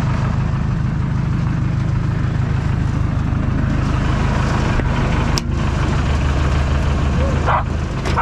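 Engine idling steadily, a loud, even low running sound, with one sharp click about five seconds in.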